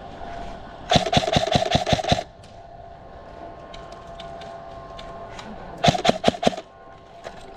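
Krytac Trident MKII CRB-M electric airsoft rifle firing two rapid bursts, a longer one about a second in and a shorter one near the end, with the gearbox motor whining under each.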